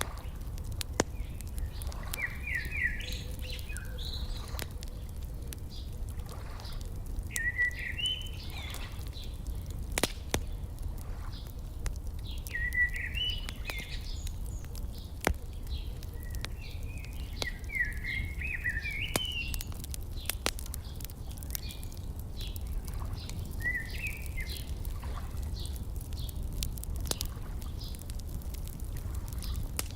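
Wood fire crackling, with sharp pops scattered throughout over a steady low rumble, while songbirds sing short warbling phrases every few seconds.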